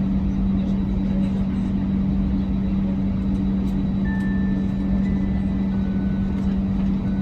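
Steady low hum and rumble inside an Airbus A321 cabin on the ground during start-up, with one constant droning tone that holds level throughout.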